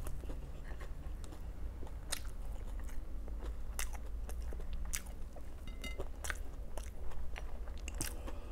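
Close-miked chewing and biting of a fried spring roll (lumpiang togue) with a rice-noodle filling: wet chewing with half a dozen sharp crunches spread through.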